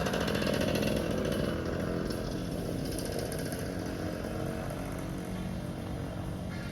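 A small engine running steadily with a rattly buzz, easing off slightly after a couple of seconds.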